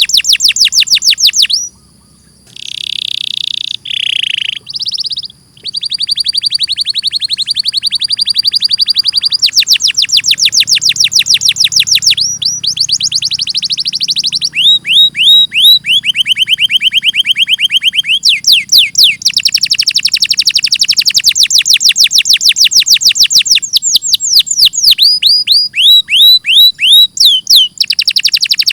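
Domestic canary singing a long song of rapid trills, each phrase a fast run of repeated high falling notes, changing from one trill to the next. It breaks off briefly about two seconds in, then gives a few buzzy notes before the trilling resumes.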